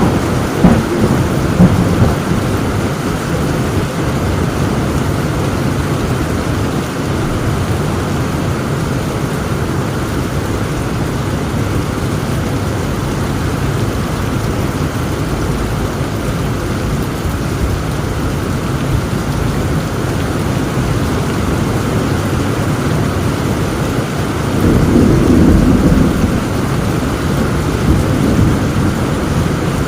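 Heavy rain falling steadily in a thunderstorm, with thunder: a few sharp cracks in the first two seconds and a rumble that swells about 25 seconds in.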